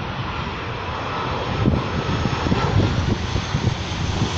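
Airplane engines running at take-off power: a loud, steady rush of noise that grows slightly louder, with an uneven low rumble underneath.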